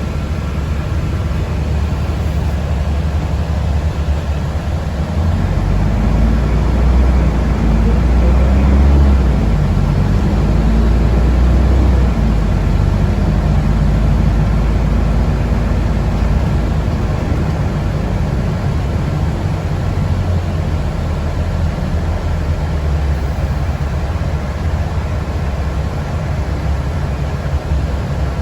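Steady low rumble of a moving public-transport vehicle heard from inside its cabin, growing louder from about five seconds in and easing off again after about sixteen seconds.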